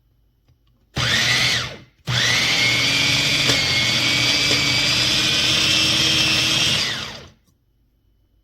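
Wancle 350 W electric food chopper motor running in two goes: a short pulse of about a second, then a steady run of about five seconds. Each time it spins up with a rising whine and winds down when released.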